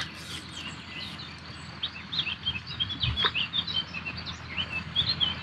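Small birds chirping and singing in quick short notes from about two seconds in, over a steady outdoor background hiss, with a single faint click about three seconds in.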